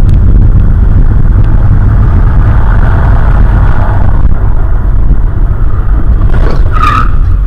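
Car driving, its loud steady rumble of engine and road noise picked up by a dashboard camera, with a brief sharp higher-pitched sound about seven seconds in.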